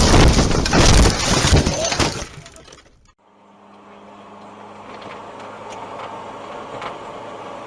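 Loud crash noise of crunching and breaking glass, dying away about three seconds in. It is followed by a car's engine running with a steady low hum.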